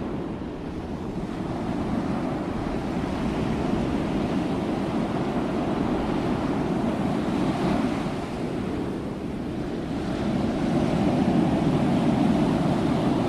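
Sea surf: waves breaking and washing ashore in a continuous rush that swells and eases slowly, building again near the end.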